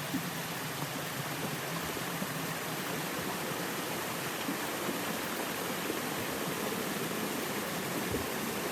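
Water flowing steadily through a miniature model dam.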